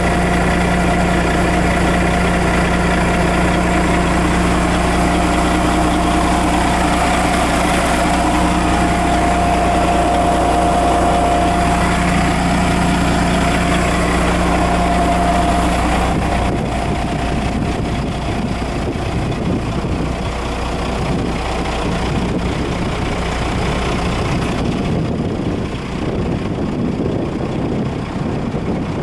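Caterpillar 972H wheel loader's C11 diesel engine idling, a steady drone with a whine over it. About halfway through the steady low hum gives way to a rougher, noisier sound.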